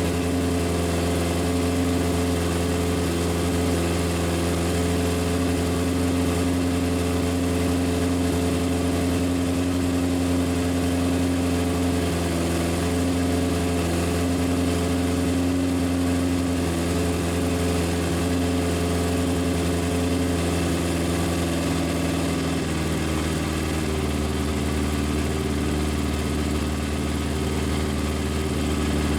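Legends racecar's carbureted engine running steadily at a high idle, while its throttle stop is fine-tuned. About three quarters of the way through the note steps slightly lower as the idle speed comes down.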